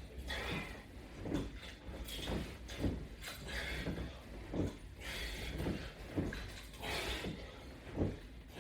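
Someone doing strap-anchored sit-ups, breathing out hard about every second and a half, with short low knocks and creaks about twice a second from the body and equipment.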